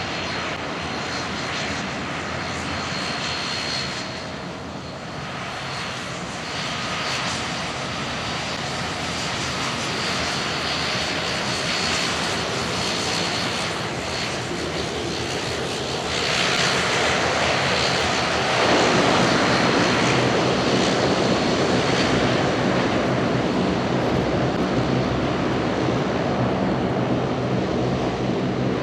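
DHC-8-Q400 turboprop airliner taxiing, its twin Pratt & Whitney PW150A turboprops and propellers running steadily with a high whine over a low propeller hum. It grows louder past the middle, and the propeller hum gets fuller near the end.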